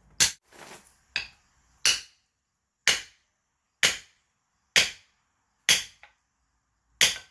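Sharp blows, about one a second, about eight in all, driving a blade or wedge into a firewood log to split it. The log is only beginning to give.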